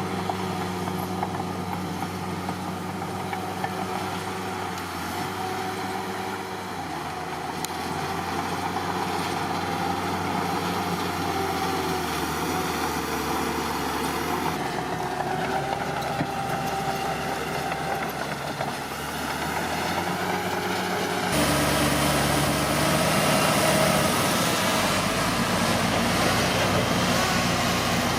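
Bulldozer's diesel engine running, a steady engine hum that rises to a louder, harder run about three quarters of the way through.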